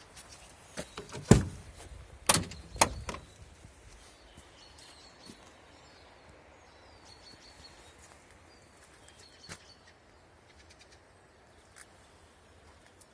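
A handful of sharp clunks from a van's doors being worked: one loud knock about a second in, then two more close together a second later. Birds chirp faintly afterwards.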